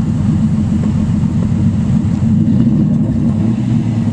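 Naturally aspirated Nissan 300ZX (Z32) 3.0 L V6 running with no exhaust system: a loud, steady, low drone with no rise or fall in pitch.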